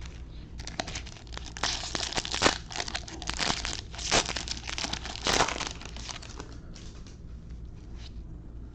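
Foil wrapper of a Bowman baseball card pack being torn open and crinkled, with a run of crackling and tearing sounds that swell three times and die down about two-thirds of the way through.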